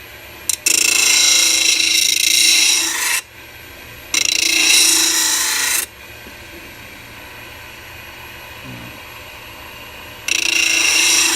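A steel lathe turning tool sharpened against a 6-inch sanding disc spinning on a mini lathe, rasping loudly in three passes of about two seconds each. The lathe's motor hums steadily between the passes.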